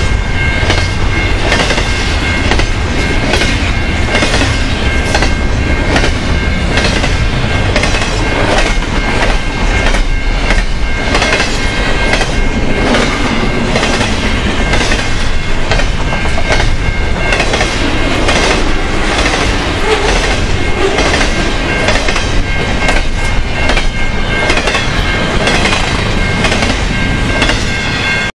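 Double-stack intermodal container cars of a long freight train passing close at track speed: a steady rumble with the wheels clicking over rail joints, and a steady high-pitched ring.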